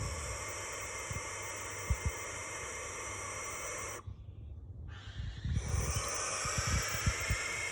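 Barn owl giving long, harsh, hissing screams: one lasting about four seconds, then after a short break another that carries on. Scattered low thumps underneath.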